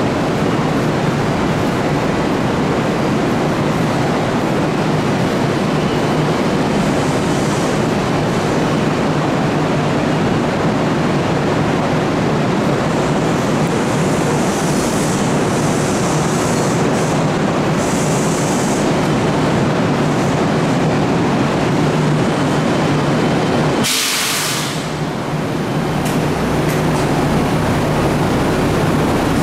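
Kintetsu 2013 series electric train running slowly into a platform with a steady rumble and low hum, and a few faint high squeals as it brakes. Near the end there is a loud hiss of air lasting about a second as it comes to a stop.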